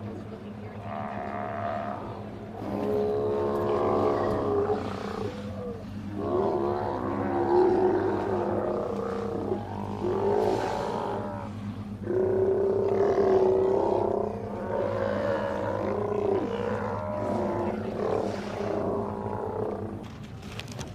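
A sea lion calling, a series of long, rising and falling calls of one to three seconds each, over a steady low hum.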